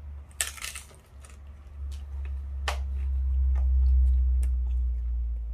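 Crunching bite into a crisp corn tostada, then chewing, with scattered crunches. A deep low rumble swells under the chewing toward the middle and eases near the end.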